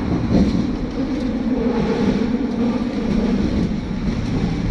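Hong Kong electric tram running steadily along the street track with a continuous low rumble.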